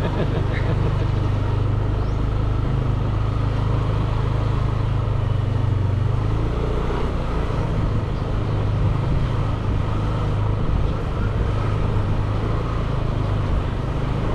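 Motorbike engine running steadily while riding, with road and wind noise; the engine note shifts about six seconds in.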